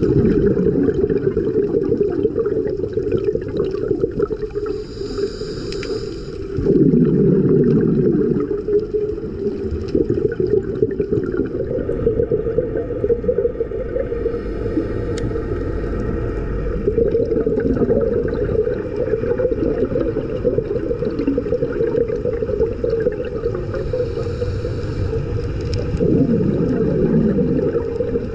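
Muffled underwater noise heard through a camera housing, with a scuba diver's regulator breathing: a short hiss of inhaling, then a gurgling rush of exhaled bubbles, twice — about five seconds in and again near the end.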